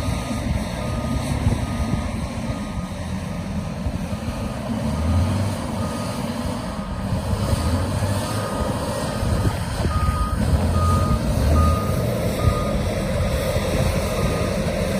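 Volvo A25F articulated dump truck reversing: its diesel engine runs under a back-up alarm that beeps steadily about twice a second, the beeps growing louder in the second half.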